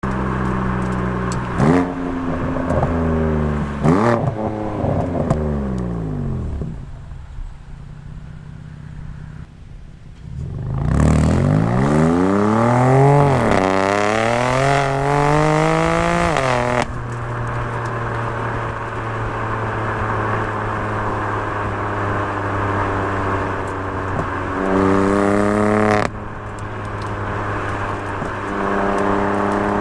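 BMW M4 twin-turbo inline-six with an Akrapovic titanium mid pipe and Eisenmann GT4 axle-back exhaust, revved repeatedly: two quick blips that fall back, a longer climb and drop in the middle, steady running between, and another rev near the end.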